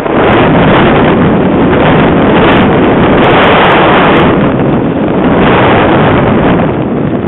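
Strong wind blowing across the microphone: loud, steady wind noise that comes up suddenly at the start and eases slightly near the end.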